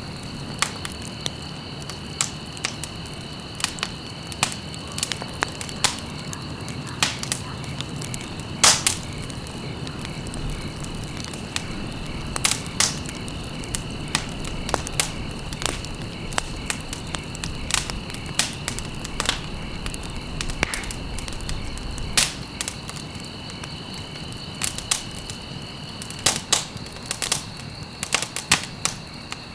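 Wood fire burning in a fireplace, crackling with frequent irregular sharp pops over a low rumble of flames; a few pops are much louder than the rest.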